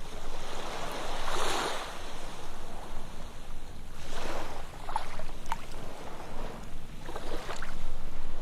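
Ocean waves breaking and washing up a sandy beach: three surges about three seconds apart, each with small splashes.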